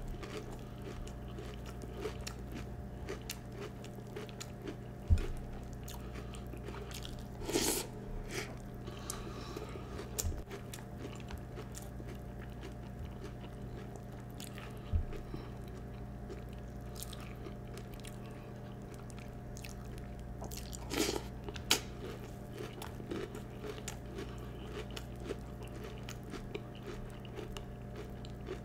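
A person chewing crunchy Peeps cereal with its marshmallows, in short bursts of crunching between pauses, over a steady low hum. A few sharp low thumps come through, the loudest about five seconds in.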